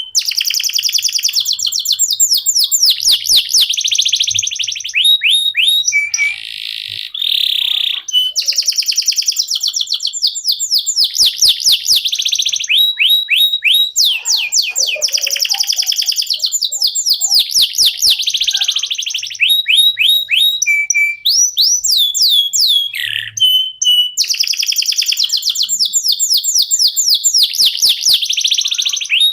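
Canary singing continuously in long, rapid trills of repeated sweeping notes, with a few brief pauses between phrases.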